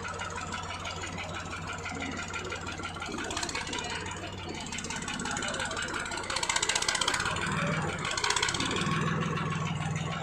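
New Holland tractor's diesel engine running steadily, then louder partway through, with the engine note settling higher near the end as it revs up.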